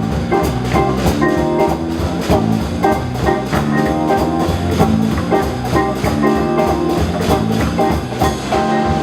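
Live band playing an instrumental break, with guitar over a steady drum-kit beat and no singing.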